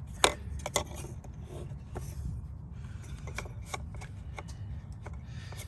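Plastic clicks and rubbing from the 2014 Mazda 3's cracked airbox lid being pressed down by hand, with a dozen or so sharp clicks scattered through, the loudest about a quarter second in. A low steady hum runs underneath.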